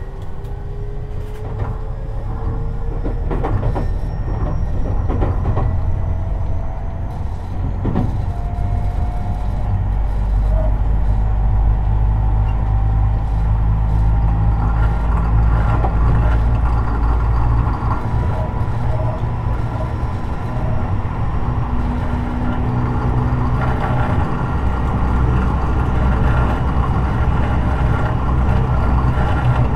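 Tobu 50090 series electric train running, heard from beneath the car: the traction motor whine rises steadily in pitch over the first dozen seconds as the train accelerates, over a heavy running rumble. Several wheel clicks over rail joints come in the first eight seconds or so.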